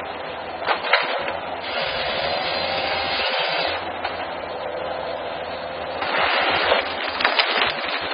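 Forestry machine sawing and processing timber, with a steady machine noise, two louder stretches of cutting and several sharp cracks of splintering wood.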